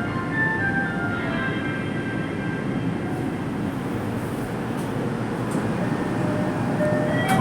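Steady running noise inside a Toei Mita Line subway car: an even rumble of wheels on rail and the car's motors.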